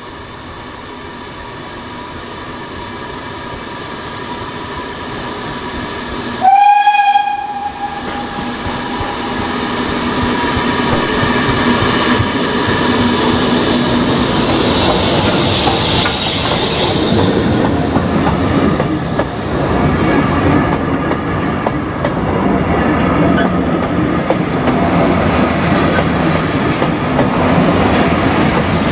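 A steam locomotive and its train approaching and passing close by, getting louder, with wheels clattering over the rail joints. The locomotive gives one short whistle blast about six seconds in.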